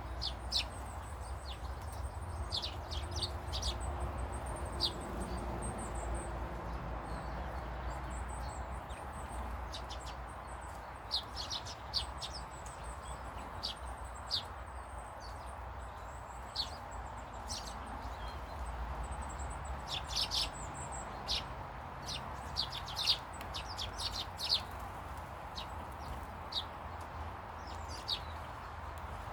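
Small garden birds chirping: short, scattered calls with a few quick clusters, over a steady low rumble.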